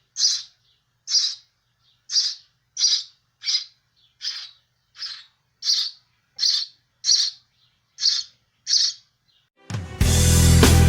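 Sparrow chirping over and over, short high chirps about one and a half a second. Loud music with drums cuts in near the end.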